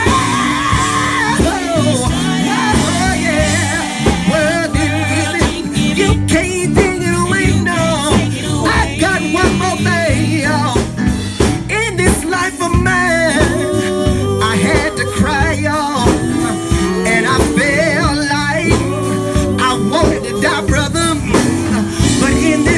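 Live gospel song: a band playing with a lead singer's voice over it.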